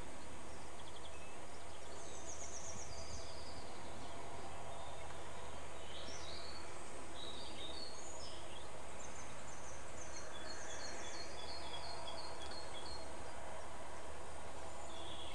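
Small birds singing in short chirping phrases over a steady background hiss, with a run of quick repeated notes from about ten to thirteen seconds in.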